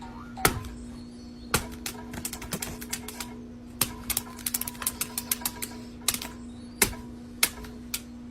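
A quick, irregular run of sharp clicks and taps, thickest in the middle, over a steady low hum.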